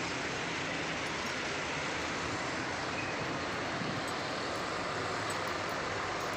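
Steady noise of a vehicle on the move on the road, an even sound with no changes.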